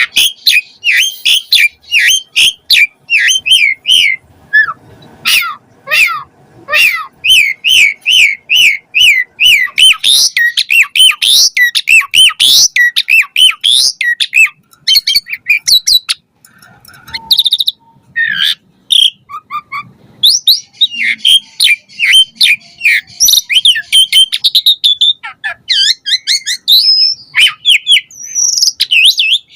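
Asian pied starling singing a long, varied song of rapid whistled and chattering notes, starting abruptly and broken by a short pause about halfway through.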